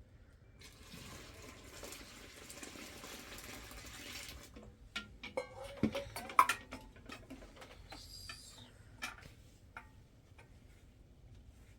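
Household handling noise: a few seconds of steady rustling or scraping, then a run of light knocks and clicks of objects being set down and moved.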